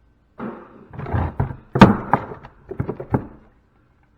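Knocks and clatters of metal parts being handled and knocked about during scrap disassembly: an irregular run of hits, the sharpest about two seconds in.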